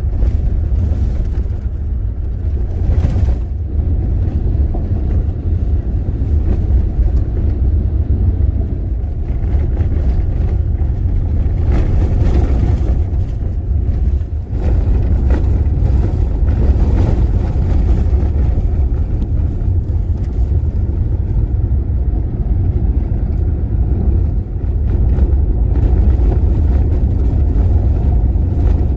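A car driving, heard as a steady low rumble with a noisy wash above it, dipping briefly about halfway through.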